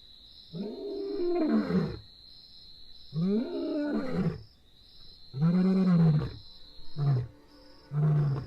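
Lion roaring: three long calls that rise and fall in pitch, followed by two short grunts near the end.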